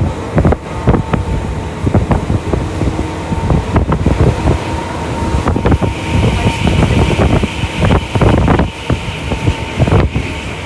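Commuter electric train running at speed, heard from inside the car: a steady rumble of wheels on rail with frequent clacks over rail joints and a steady whine. About six seconds in, a higher hiss joins.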